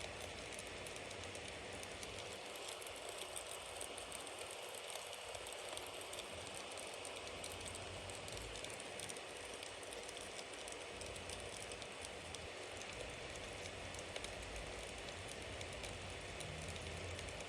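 Bonfire burning: a steady hiss of flames with many small crackles and pops from the burning wood.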